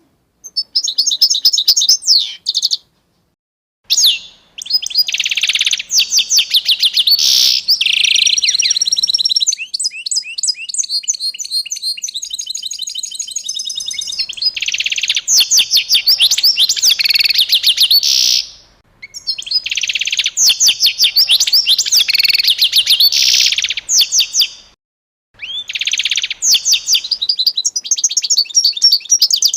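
Songbird singing in bouts of rapid, high chirping phrases a few seconds long, broken by brief spells of silence, with a quieter fast trill in the middle.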